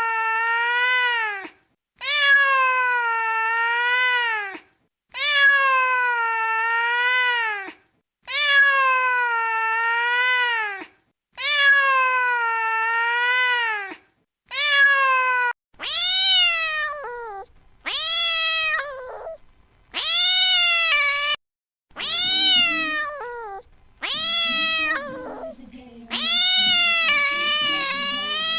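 Domestic cat meowing over and over in long, drawn-out meows with silent gaps between them. The first five are nearly identical; from about halfway they turn shorter and higher and come closer together.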